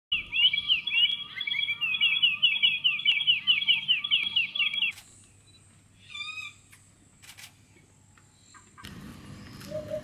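A songbird sings a loud, fast, repeating phrase for about five seconds, then stops abruptly. A few quiet bird calls follow. Near the end the low 'hoop-hoop' call of an African hoopoe begins.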